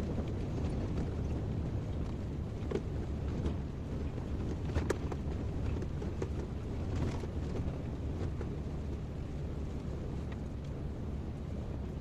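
Kobelco excavator's diesel engine running steadily in a low rumble, with a few faint clicks and knocks over it.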